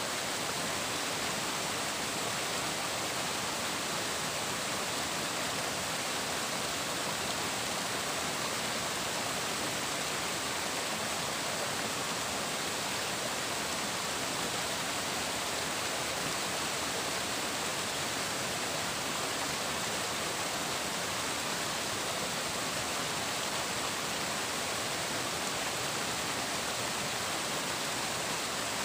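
Flowing water rushing steadily, an even unbroken hiss with no splashes or changes.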